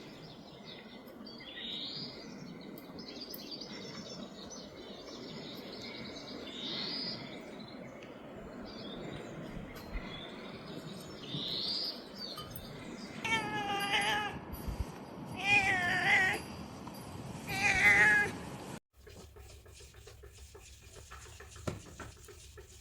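A cat meowing three times, each meow about a second long and wavering in pitch. Three faint, short rising squeaks come before the meows.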